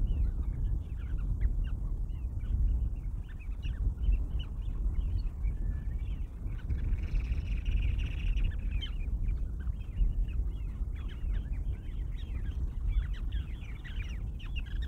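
Many birds calling at once in quick, short notes that go on throughout, over a steady low rumble.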